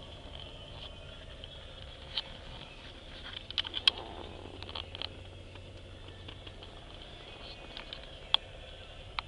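A 2003 Chevrolet Impala's 3.4 L V6 idling steadily after a warm start, with scattered sharp clicks, a cluster of them about four seconds in and one more near the end.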